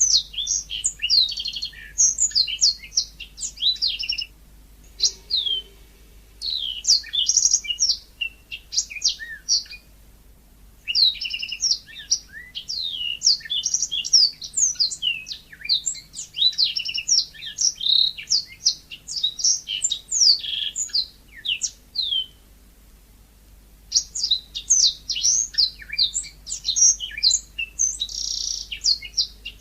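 Yellow-fronted canary (mozambik) singing vigorously: rapid runs of high, sweet twittering notes, broken twice by pauses of a second or two.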